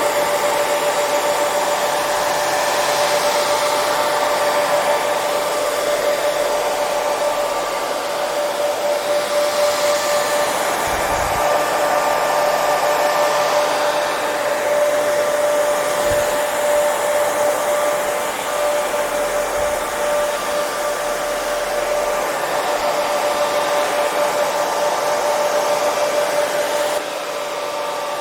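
Hair dryer running continuously: steady rushing airflow with a constant motor whine, dipping slightly in loudness near the end.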